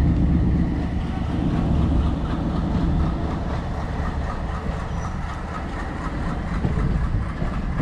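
Indian Railways diesel locomotive running past on the adjacent track, its engine giving a steady heavy rumble. Its coaches follow, wheels running over the rails, heard from the open door of a moving train.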